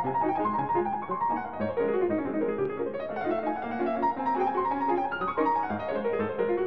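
Background piano music: quick runs of notes sweeping down and back up.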